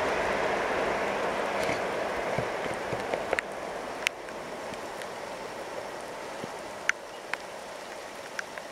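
Rushing rail noise of a VR Pendolino (Sm3) electric train receding after passing a level crossing, fading steadily away. A few short, sharp high sounds come through in the second half.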